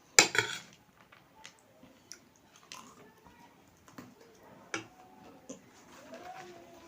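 Close-up eating of crunchy chatpate: a loud crackling crunch at the first bite just after the start, then scattered short crunching clicks of chewing.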